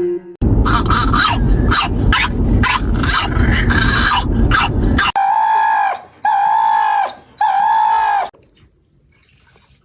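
A dog vocalising loudly: about five seconds of rough, rapid noise, then three drawn-out cries of about a second each, all at the same steady pitch.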